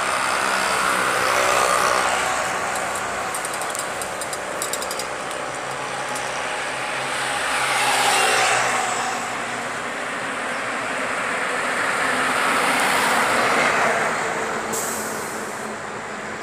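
Vehicles passing one after another over a steady engine hum, the noise swelling and fading three times, with a patch of rapid clicking near the start.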